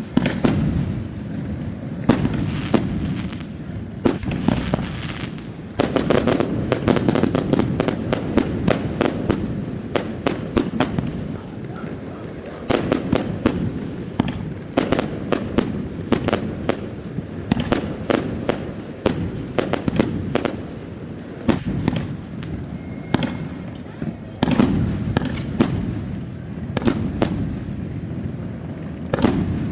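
Fireworks going off continuously: many sharp bangs, some in rapid crackling clusters, over a steady rumble of booms.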